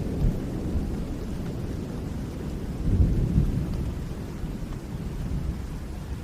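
Rain falling with low rolling thunder rumbling underneath; the rumble swells about three seconds in and eases off toward the end.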